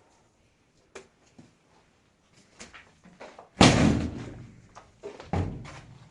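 Scattered small knocks and clicks, then a loud slam or bang about halfway through that trails off, and a second, smaller thump about a second and a half later.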